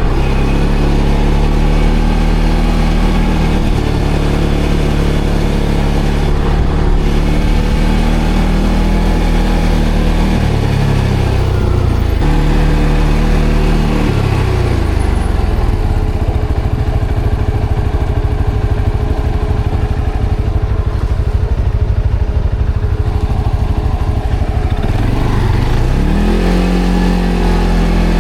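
ATV engine running under way, the revs rising about ten seconds in, dropping back and holding lower, then rising again near the end.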